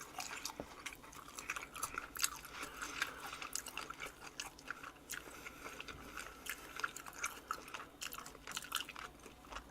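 Close-miked chewing of boiled pork belly (suyuk) with garlic and chogochujang: irregular wet mouth clicks and soft chewing.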